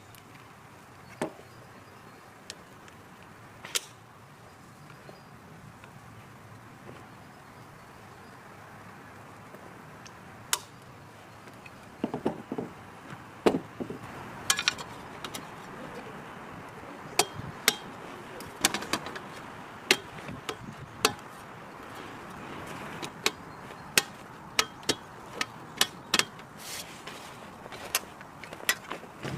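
Irregular sharp clicks and knocks over a faint steady hiss, sparse at first and coming much more often from about twelve seconds in.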